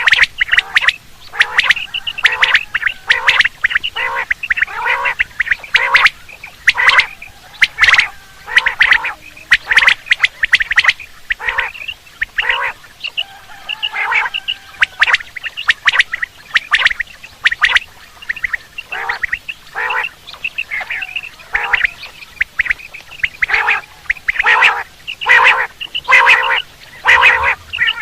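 Quail (batair) calling: a long series of short, sharp calls repeated about one to two times a second, with brief pauses. This is a quail call recording of the kind played to lure quail when hunting.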